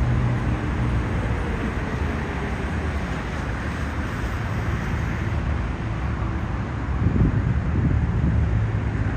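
Steady road traffic noise from passing cars, with a low rumble growing louder about seven seconds in as a vehicle goes by.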